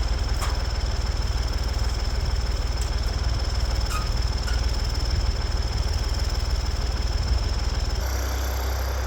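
Farm tractor engine running steadily, a continuous low rumble with a few faint knocks. About eight seconds in the engine sound changes abruptly to a lower rumble.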